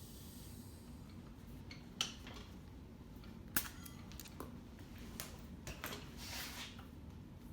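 Sharp metallic clicks and knocks, the two loudest about two and three and a half seconds in, and a short burst of air hiss near the end, as a dirt-bike tire on its rim is aired up to seat the bead.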